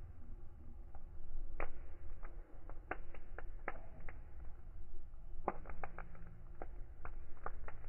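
Wood fire crackling: irregular sharp pops and snaps, some in quick clusters, over a low steady rumble of the burning.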